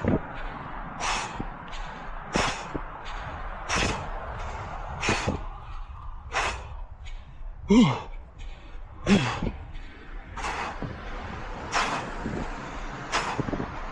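A runner's heavy breathing while running: a hard, hissy exhale roughly every 1.3 seconds, about ten in all. Two of the breaths, a little past halfway, carry a short falling voiced groan.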